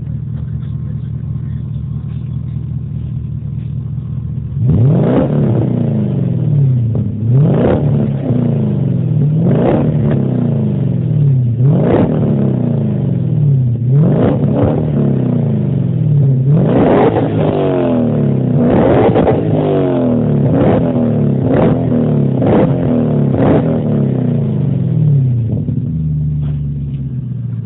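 V8 engine of a BMW E30, heard through its new exhaust, idling steadily, then revved about ten times in a row. Each rev rises quickly and falls back more slowly, before the engine settles to idle again near the end.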